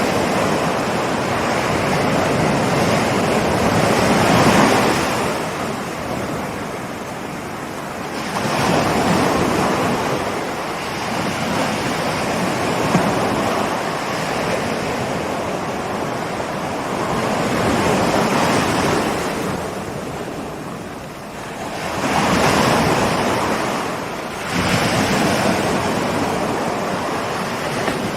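Ocean surf: waves rolling in and breaking, the wash swelling and easing every four to five seconds.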